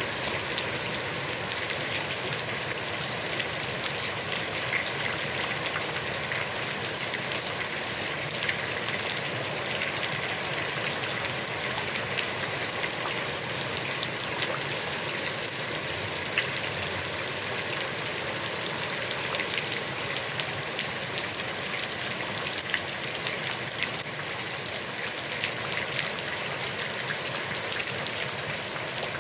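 Steady heavy rain falling on a pond's water, an even hiss with scattered drop ticks.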